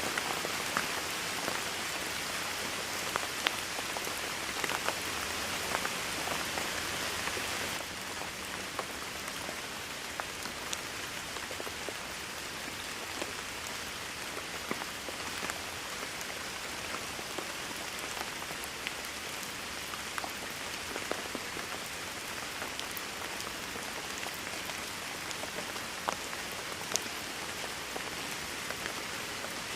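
Steady rain falling, with individual drops tapping sharply through the hiss; it eases slightly about eight seconds in.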